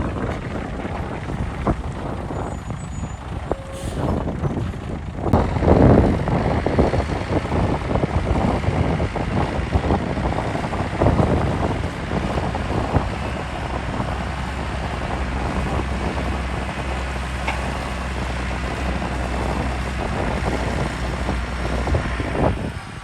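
Heavy diesel engines of earthmoving machinery running steadily under load, with a brief high air hiss about four seconds in and a louder rumbling surge around six seconds.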